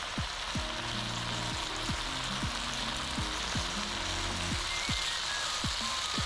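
Bulgogi frying in a hot pan: a steady sizzle.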